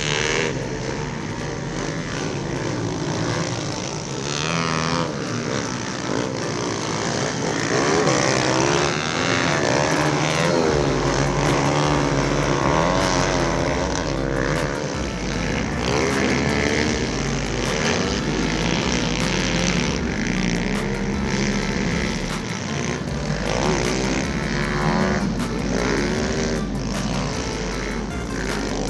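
Several small pit bike engines running at once, their pitch rising and falling as the riders work the throttles.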